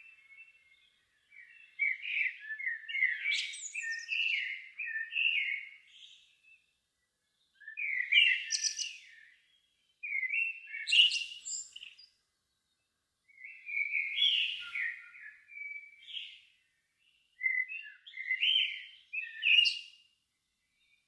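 A songbird singing in separate warbled phrases of a few seconds each, with short pauses between them; most phrases end in a thin, high flourish.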